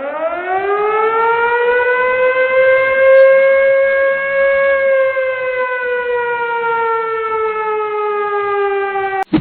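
Civil-defense style siren giving one long wail: it rises over about three seconds, holds, then sinks slowly and cuts off suddenly near the end.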